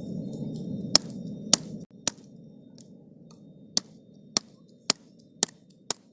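A series of sharp clicks, about eight, roughly half a second apart, over a low steady rumble that drops off abruptly about two seconds in.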